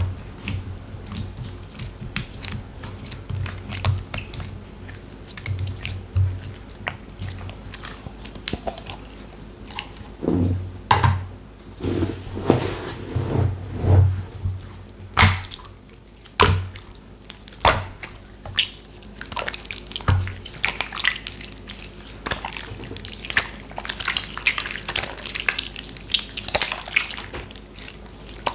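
Slime being squished, pressed and stretched by hand: a run of wet, sticky clicks, pops and crackles, with heavier squelches around the middle and dense fine crackling near the end.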